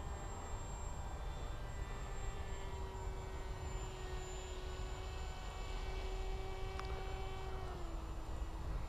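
Bixler RC plane's electric motor and propeller whining at a steady pitch, stepping down to a lower pitch near the end, over a low wind rumble.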